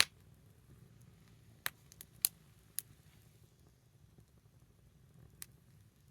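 Small wood fire crackling: about six sharp, irregular pops and snaps of burning wood, the loudest at the very start and just after two seconds in, over a faint low rumble.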